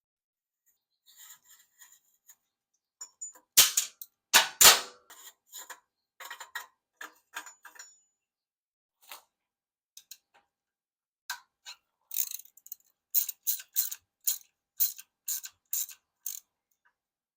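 Hand tools on metal: a couple of loud metal knocks, then a socket ratchet clicking in short back-and-forth strokes, about two a second, as bolts on a Suzuki Burgman 650 exhaust are worked.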